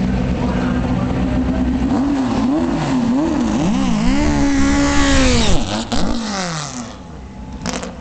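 VW Beetle Pro Stock drag car's engine running at a steady fast idle, then revved in quick blips on the starting line from about two seconds in. It launches around four seconds in, holds a high note, then falls in pitch and fades as the car pulls away down the strip.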